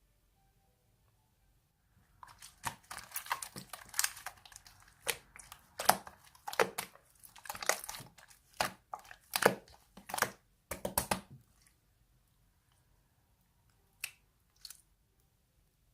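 Close crinkling and crunching handling noise, a dense run of sharp crackles lasting about ten seconds, then two short clicks near the end.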